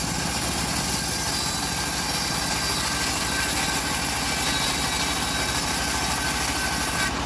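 Bandsaw sawmill running steadily through an old teak log, its motor a continuous drone with a high hiss over it that stops near the end.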